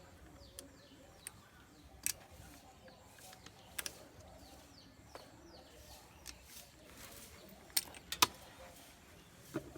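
Scattered sharp metal clinks of tools and clutch parts being handled, the loudest about eight seconds in, with small birds chirping faintly throughout.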